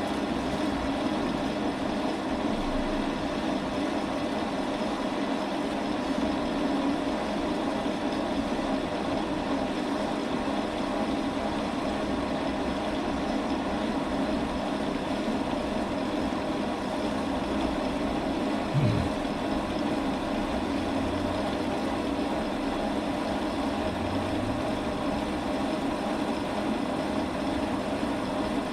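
Metal lathe running steadily while taking a turning cut on a steel insert, with one brief falling squeak about two-thirds of the way through.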